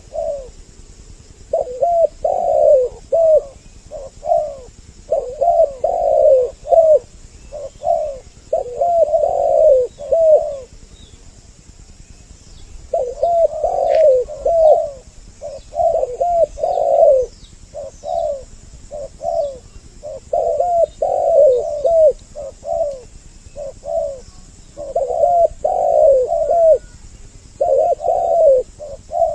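Two spotted doves (tekukur) cooing, with short phrases of several coos repeated again and again and a pause of about two seconds near the middle. Faint high chirps of small birds sound in the background.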